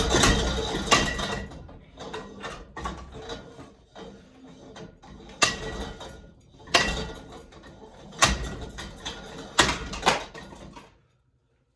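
Cheap ceiling fan being smashed apart: a loud mechanical clatter at first, then scattered rattling and four sharp knocks about a second and a half apart, each a hard strike on the fan's blade assembly.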